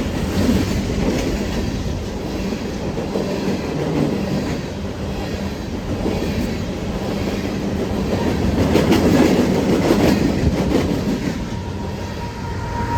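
Empty coal cars of a freight train rolling past: a steady rumble with wheels clacking over the rail joints, loudest about nine to ten seconds in.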